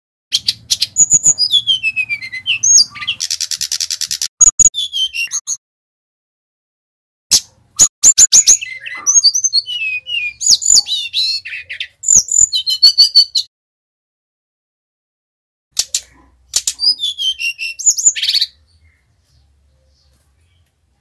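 Sikatan rimba dada coklat (SRDC Bali) singing: three fast, varied song phrases of high whistles that glide up and down, with quick chattering notes and a short buzzy rattle in the first phrase, separated by pauses of about two seconds.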